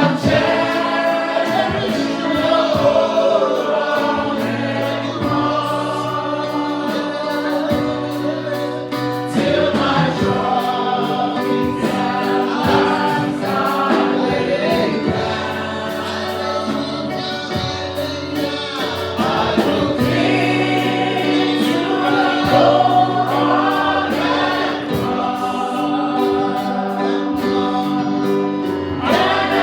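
Gospel choir singing a praise-and-worship song over instrumental accompaniment, with sustained bass notes and a steady percussion beat.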